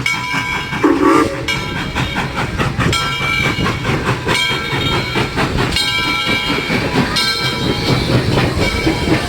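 Passenger train pulling in along the platform: rumbling and clattering of the wheels, with a high squeal that comes and goes several times.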